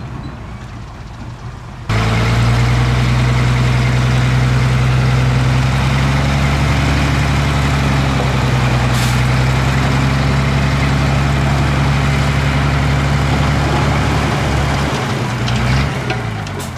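Heavy diesel engine of earthmoving equipment running at a steady speed, cutting in abruptly about two seconds in. Near the end the engine note shifts and fades.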